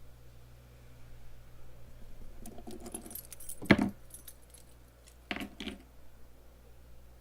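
Clinking and jangling of small metal objects being handled, with one sharp knock about halfway through and a second, shorter jangle a couple of seconds later.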